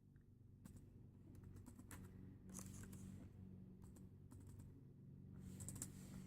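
Faint computer keyboard typing and clicking in short scattered clusters, over a low steady hum.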